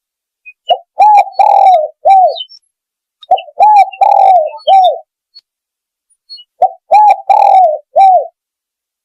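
Spotted dove cooing: three repeated call phrases about three seconds apart, each a short lead note followed by a few rounded, arching coos.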